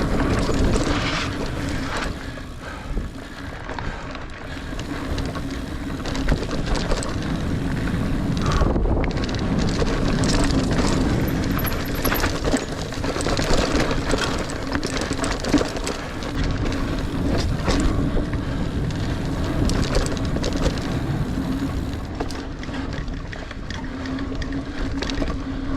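Niner Air 9 RDO 29er mountain bike ridden along a dirt singletrack: tyre noise and chain and frame rattle over the bumps, with wind on the microphone and a steady hum under it.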